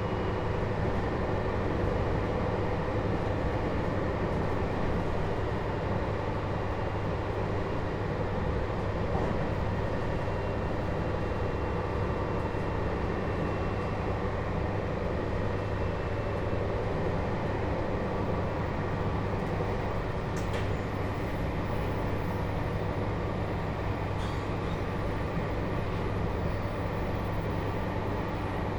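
Running noise heard inside a JR Hokkaido 721-series electric train motor car with a Toshiba GTO inverter, at a steady level: an even rumble of wheels on rail. A faint high tone fades out about halfway through, and a couple of sharp ticks come later.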